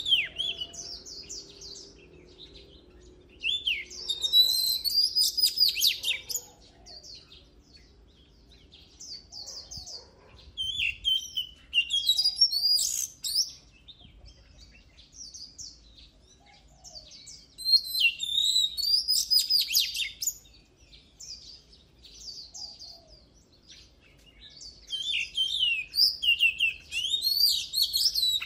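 Oriental magpie-robin singing: loud, varied phrases of rich whistles and quick trills, each two to three seconds long, with short pauses between them.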